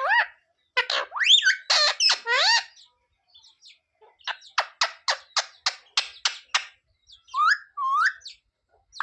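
Pet green parrot calling: a run of loud, pitched calls with gliding pitch, then a quick, even series of about nine sharp calls, then two short rising calls near the end.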